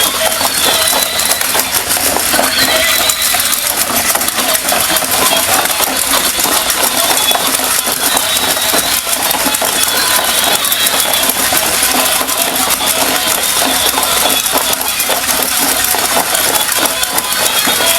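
Battery-powered toy horse walking, its small motor and plastic gears running with a dense, rapid clicking rattle.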